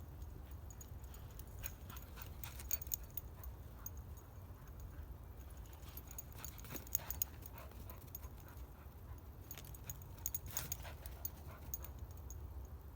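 Small dog panting and whining as it plays, with scattered short taps and clicks over a low steady rumble.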